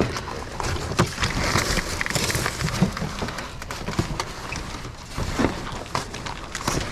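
Scattered knocks, clunks and scraping as garage door panels and debris are shifted and handled in a dumpster, over a rustling background.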